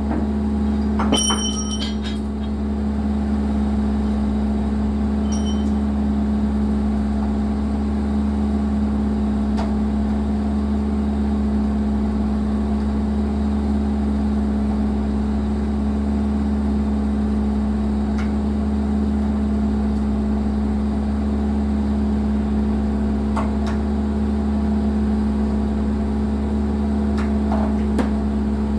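John Deere 120 excavator's diesel engine running at a steady speed, with a few short faint knocks scattered through, a small cluster of them near the start.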